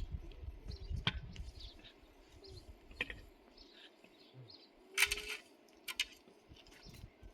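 Outdoor ambience with small birds chirping faintly and a low rumble early on. Several sharp knocks or clicks cut through, the loudest a short clatter about five seconds in.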